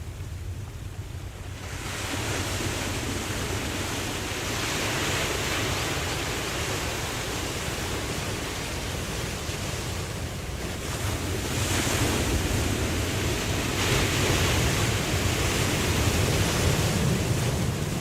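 Ocean surf washing in waves, a steady hiss with a low rumble that swells and ebbs several times, starting quieter and building about two seconds in.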